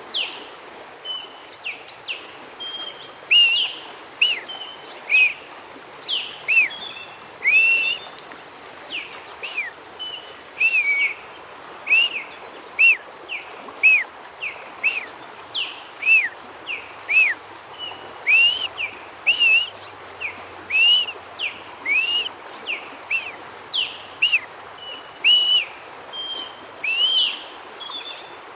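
Ospreys calling: a long series of short, high whistled chirps, about one or two a second, some rising and some falling in pitch.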